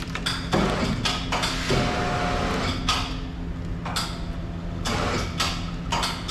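Engine running steadily, powering a truck-mounted crane, with repeated sharp metal knocks and clanks over it and a brief high steady whine about two seconds in.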